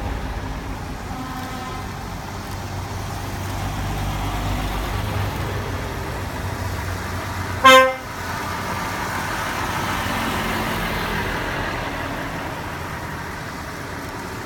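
Heavy truck engines running with a steady low rumble, and one short, loud truck horn blast about halfway through.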